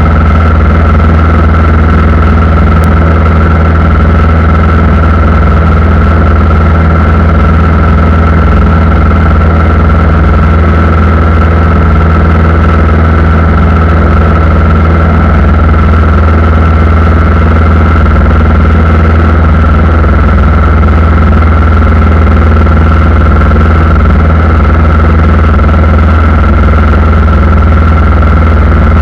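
Airliner engines running steadily, with a deep, even hum and a steady high whine above it.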